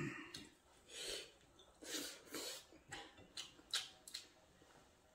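Close-up eating sounds of a man eating rice and curry by hand: chewing, a few soft breaths through the nose, and several short wet mouth clicks about three to four seconds in.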